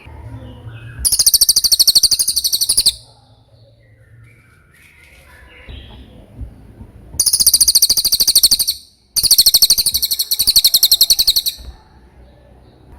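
Cililin (Javan hanging parrot) singing: three bursts of a rapid, very high-pitched, wavering trill, each one to two and a half seconds long, with softer chirps between them.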